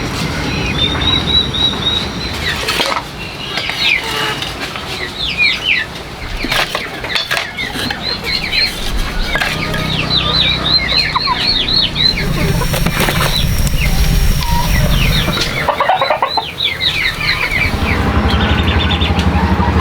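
Chickens calling: many short, high, falling peeps and chirps in quick runs, with scattered knocks and a low steady rumble underneath in the second half.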